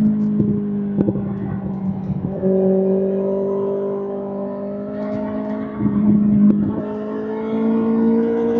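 Kawasaki ZX-6R's inline-four engine running at steady mid revs through an SC-Project SC1-R exhaust. The pitch drifts slowly, with two abrupt changes: about two and a half seconds in, and again around six to seven seconds.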